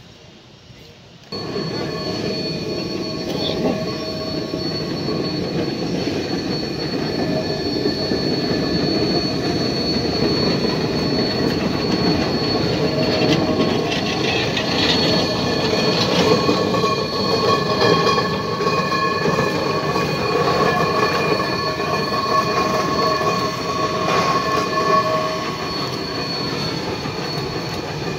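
Geared steam locomotive train running on the rails, steel wheels squealing in several steady high tones over a continuous rumble. It starts abruptly about a second in.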